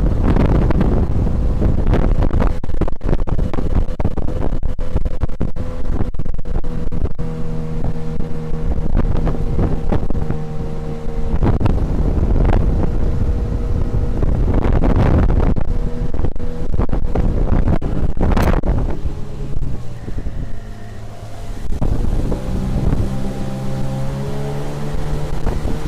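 Tohatsu 9.8 outboard motor pushing an inflatable boat at speed, its steady drone mixed with heavy wind buffeting on the microphone. About twenty seconds in the engine note drops and the wind eases briefly, then both pick up again.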